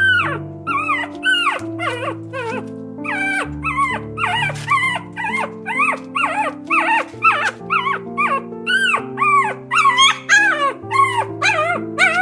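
A dog whimpering and yipping over and over in short high whines that rise and fall in pitch, about two or three a second, over background music with held chords.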